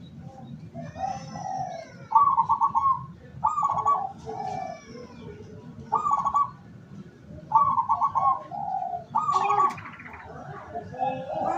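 Zebra doves (perkutut) cooing: a series of short, rapidly trilled coos, each under a second, repeating every second or two.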